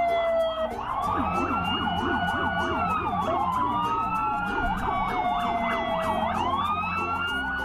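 Electronic police siren from a toy police car: a slow wail that rises and falls about every three seconds, layered over a fast yelping warble.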